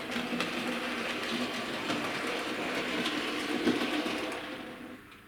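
Electric model railway locomotive running along the track, its motor whirring steadily with faint clicks from the wheels, slowing and dying away near the end as it comes to a stop.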